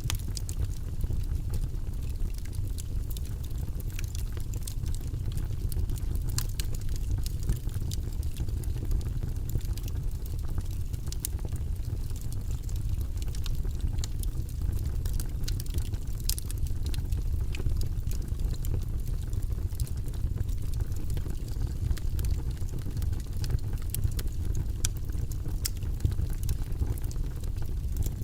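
Wood logs burning in a fireplace: a steady low rumble of the fire with irregular sharp crackles and pops scattered over it.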